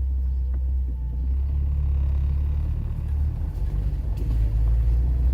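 Car engine running with a steady low rumble, its note lifting slightly about a second and a half in.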